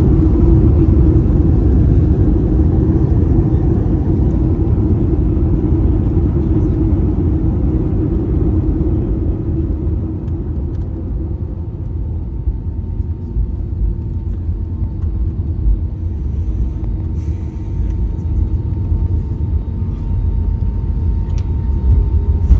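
Cabin noise inside an Airbus A320neo with CFM LEAP-1A engines: a loud, steady low rumble that gradually eases over the first half and then holds, with a faint steady whine joining about halfway through.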